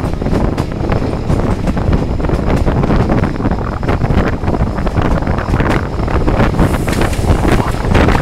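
Passenger train running over the tracks, heard from an open carriage window: a steady low rumble with irregular knocks and clatter of the wheels over rail joints and switches, and wind buffeting the microphone.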